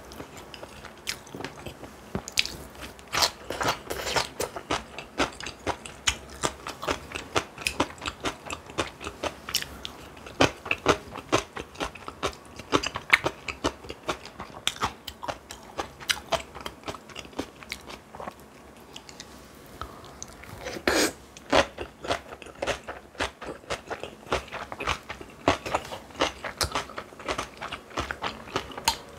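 A person chewing and biting through food, a dense run of small crisp crunches and wet clicks with a few louder bursts of crunching.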